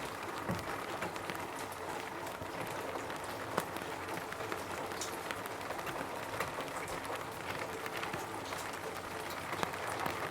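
Rain falling on a roof: a steady hiss of rain with many single drops ticking sharply on the surface, one louder hit about three and a half seconds in.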